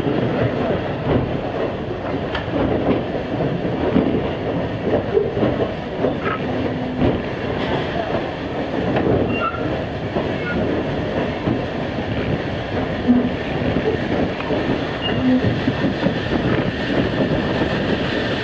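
Passenger coach rolling along the track: a steady rumble and rattle of the car and its wheels on the rails.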